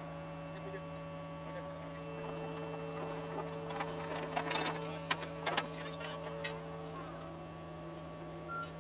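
John Deere 75 excavator's diesel engine running at a steady pitch, with a higher hydraulic whine coming in about two seconds in and dropping away near the end. Scattered clicks and rattles come through in the middle.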